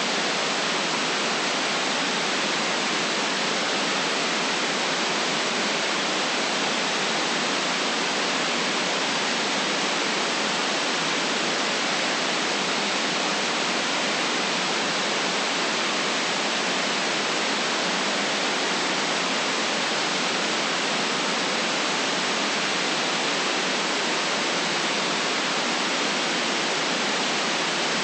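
Steady white noise: an even, unchanging hiss with no events, cut off below the lowest bass and above the highest treble.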